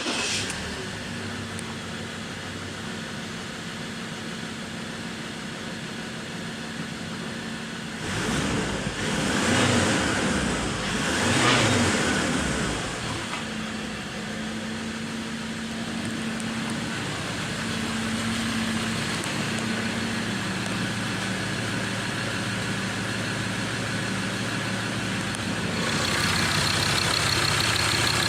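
Ford Ranger engine running at idle, revved up twice about nine and eleven seconds in, then settling back to a steady idle. It gets louder near the end.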